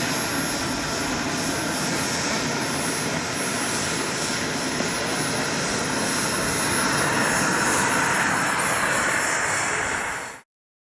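Model jet turbine engine of a large RC jet running steadily, with a high thin whine over a loud rushing blast. It grows a little louder past the middle, then stops abruptly.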